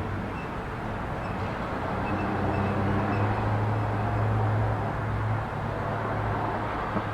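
Outdoor background noise: a steady low hum with a haze of noise over it, swelling a little a few seconds in, with one small click near the end.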